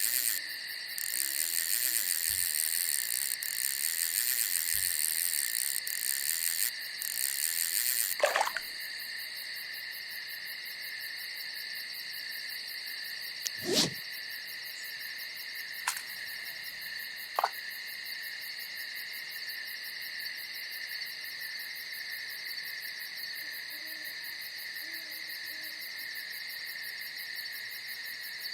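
Night insect chorus: steady high-pitched trilling, with a denser, louder layer that stops about eight seconds in. A few sudden sharp sounds stand out, the loudest about fourteen seconds in, and faint low hoots sound near the start and again near the end.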